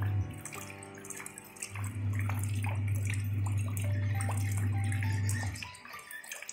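Rain falling into a shallow puddle, many separate drops splashing. Under it runs background music of held notes over a low steady drone; the drone drops out briefly soon after the start and again near the end.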